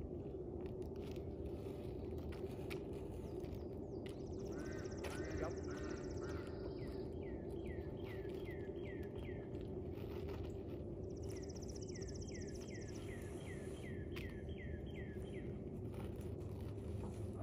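Songbirds singing. One bird repeats a series of down-slurred whistled notes at about three a second, in two runs. A high buzzy trill comes in bouts between them. Under it all runs a steady low outdoor hum, with a few faint knocks.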